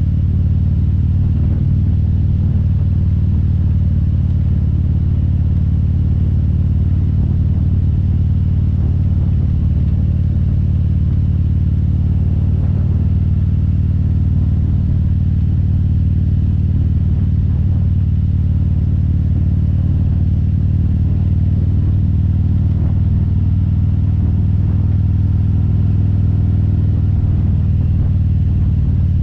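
Harley-Davidson Road Glide's V-twin engine running steadily while riding, a deep even rumble with no change in revs.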